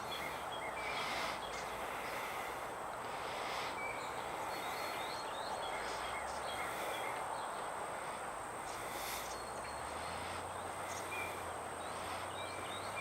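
Steady outdoor background noise, an even wash, with faint short bird chirps scattered through it.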